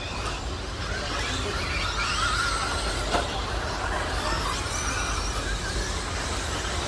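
Several electric RC stadium trucks with 13.5-turn brushless motors racing, their motors whining and sliding up and down in pitch as they speed up and slow down. A single sharp knock is heard about three seconds in.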